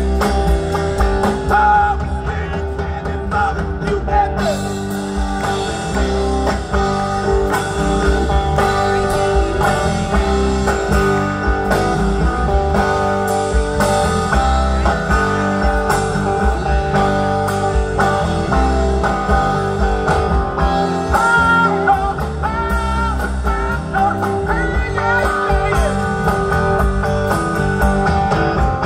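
Live rock band playing an instrumental break, guitar over bass and drums.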